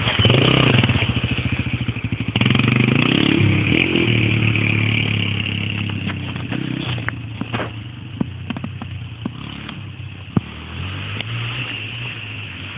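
Dirt bike engine revving hard, its pitch climbing and dropping, with a brief dip about two seconds in; then the engine sound fades steadily as the bike moves away. A few sharp clicks come near the end.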